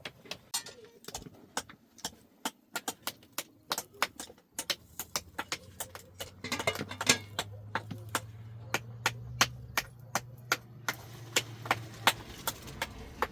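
Many sharp clicks and knocks at irregular intervals, with a low steady hum coming in about halfway through.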